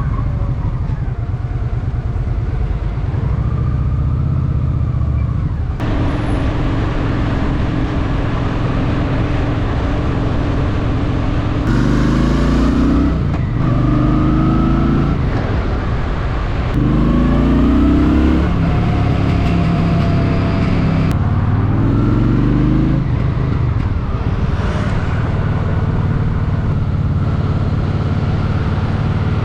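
Honda Shadow VT750's V-twin engine running under way. From about twelve seconds in it rises in pitch in four short pulls, each broken off as the gears are shifted up.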